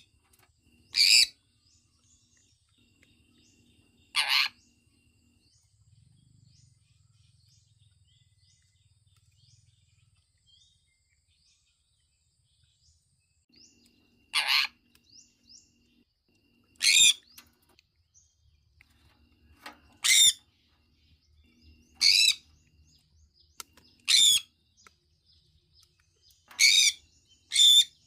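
Sun conure giving short, loud, shrill calls one at a time, a few seconds apart, with a long pause in the first half, and faint chirps between them.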